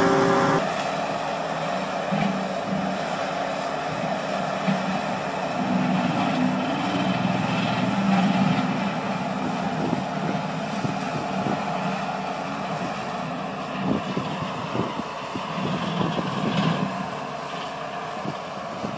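Skid steer running with a hydraulic brush cutter attachment: a steady rushing noise over a low engine hum, with scattered knocks in the last few seconds.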